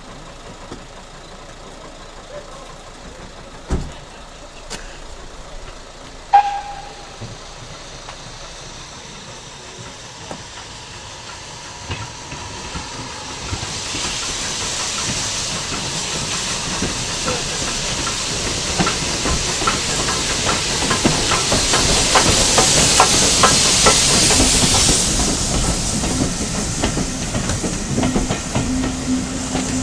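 Steam train approaching: after a quiet stretch with one sharp knock, hissing steam and rapid clicking from the wheels build up over the second half, growing loudest in the last few seconds.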